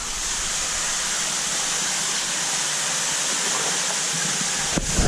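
Steady hiss of rushing, splashing water at a large aquarium, with a sharp knock near the end.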